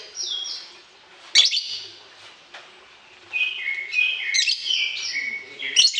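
Small bird chirping: a sharp high call about a second and a half in, then a quick run of stepped chirps from about three seconds on.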